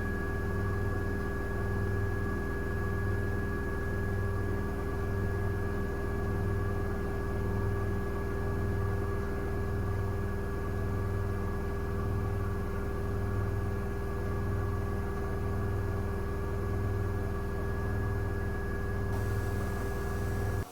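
Miele W1 washing machine drum spinning at speed: a steady motor whine with a low hum that swells about once a second.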